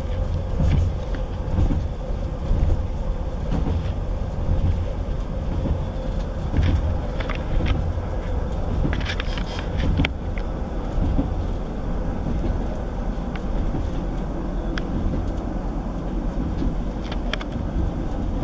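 Cabin noise of a Class 158 diesel multiple unit running at speed: a steady low rumble from the diesel engine and the wheels on the rails, with a steady hum and scattered sharp clicks and rattles.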